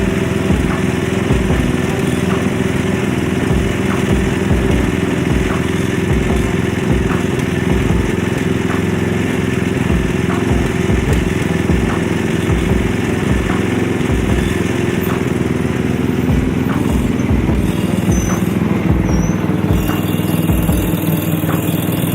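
Craftsman riding lawn mower's engine running steadily under way.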